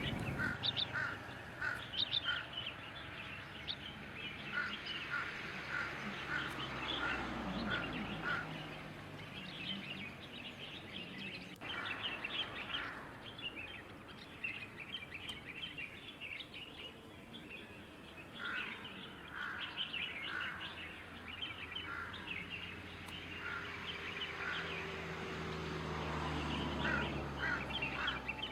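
Small birds chirping and calling, with a run of four to six short, evenly spaced notes that comes back several times.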